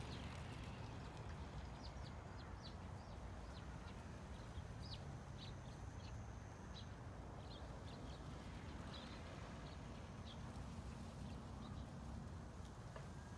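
Steady low ambient rumble with faint, short high chirps of small birds scattered through the first two-thirds.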